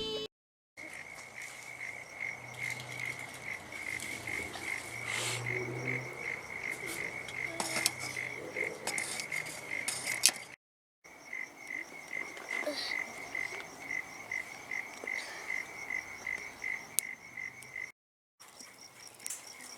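Frogs calling in an evenly pulsed chorus, a few rapid notes a second, with occasional sharp pops and crackles from a wood campfire.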